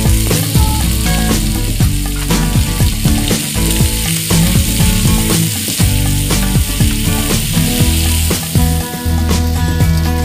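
Tomatoes and flaked smoked fish sizzling in hot oil in a non-stick frying pan as they are sautéed, with a spatula scraping and stirring.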